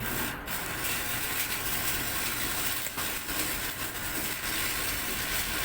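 Electric welding arc, a steady crackling hiss that breaks off briefly just after the start and then runs on.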